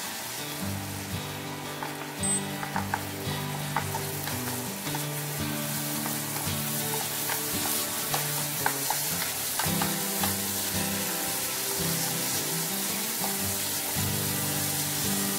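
Pork, tomatoes and onions sizzling in hot oil in a nonstick frying pan while a wooden spoon stirs them, with scattered light scrapes and taps of the spoon against the pan.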